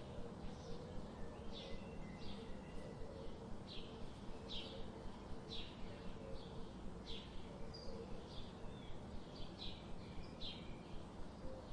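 Small birds chirping, short repeated calls every half second or so, over a steady low hum.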